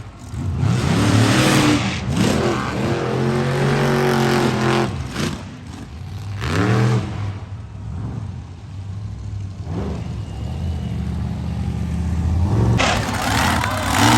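Monster truck engine revving hard, its pitch rising and falling several times. It is loudest in the first few seconds and again near the end, with a steadier, lower stretch in between.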